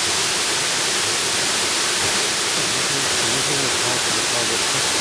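Jungle waterfall: a steady, unbroken rush of falling water.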